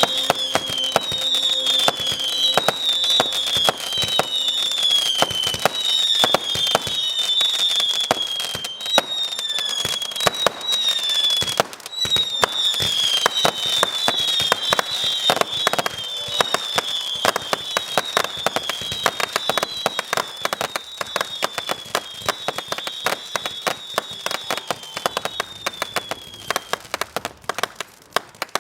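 Fireworks display: a dense, rapid stream of crackling reports and bangs, with a run of whistling fireworks whose high whistles each fall slightly in pitch, about one a second. The whistles stop near the end as the barrage thins and grows quieter.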